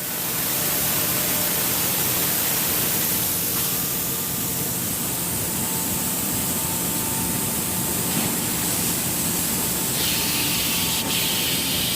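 CNC router running and cutting wood, a steady hissing noise with a faint steady whine. The high hiss gets louder about ten seconds in.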